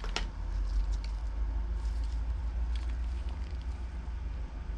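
A few light clicks and taps of small parts being handled, the clearest just after the start, over a steady low hum.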